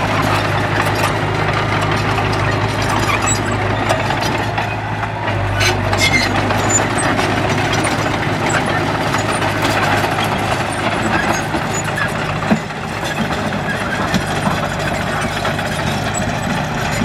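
Diesel engine of a heavy earthmoving machine running steadily with a low hum, with a couple of brief knocks.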